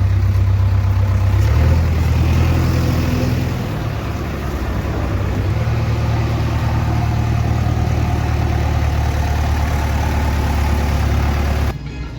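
Diesel engine running with a steady low hum, its pitch shifting a couple of times in the first few seconds before holding steady; the sound cuts off abruptly near the end.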